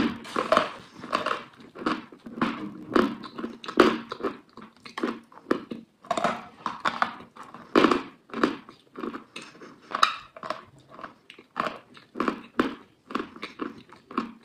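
Close-miked chewing of a crumbly, powdery white block: irregular crunches a few times a second as it is bitten and ground in the mouth.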